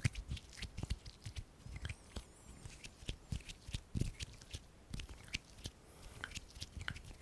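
Close-miked ASMR hand sounds: irregular soft clicks, taps and rubs of skin, busier at the start and sparser through the middle.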